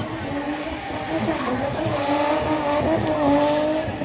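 A spinning car's engine held at high revs, its pitch wavering slightly as the throttle is worked, over the hiss of wheelspinning tyres.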